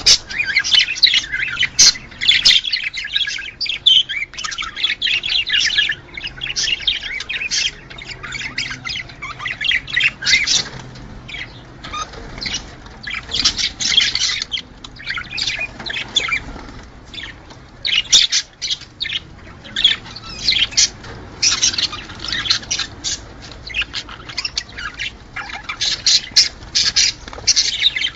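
A group of budgerigars chattering and warbling, busy and continuous, with frequent sharp squawks and a few brief lulls. This is the breeding-time chatter that budgie keepers play to pairs to bring them into breeding condition.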